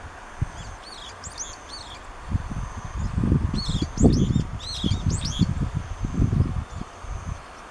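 A small songbird gives quick series of short, high chirps in two bursts, one about a second in and a longer one mid-way. Under them runs an uneven low rumbling noise, loudest in the middle.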